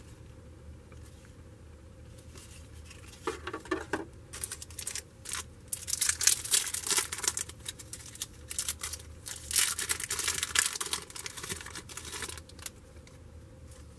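Foil trading-card pack wrapper being torn open and crinkled, in irregular crackling bursts that start about three seconds in and stop shortly before the end.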